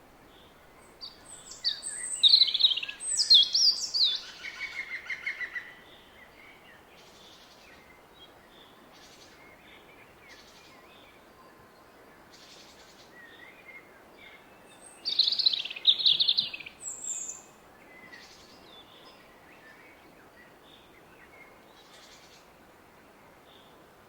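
A songbird sings two loud phrases of quick high notes. The first, about a second in, ends in a fast trill; the second comes about halfway through. Between them a few faint, distant calls sound over the steady rush of a distant river.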